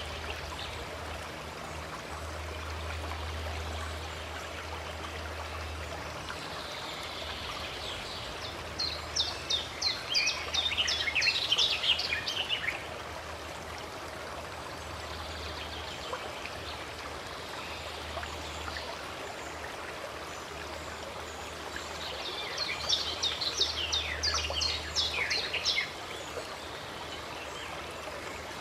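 Running stream water with a steady rush, and a songbird twice singing a quick run of high chirping notes, about a third of the way in and again near the end. A low hum sits underneath.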